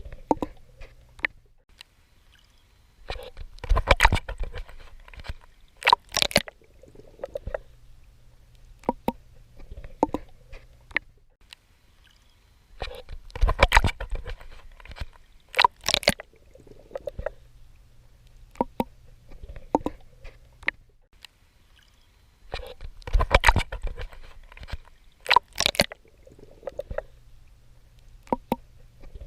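Swimming in the ocean heard close up: bursts of splashing and sloshing strokes through the water, coming about every ten seconds, each a cluster of sharp splashes, with a faint low rumble between them.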